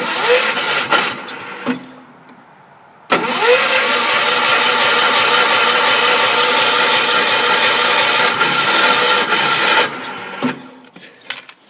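Wheel Horse C-105 garden tractor engine being cranked by its starter in the cold, a short burst of about a second and a half and then a long crank of about seven seconds, each spinning up with a rising whine, without catching: a failed cold start.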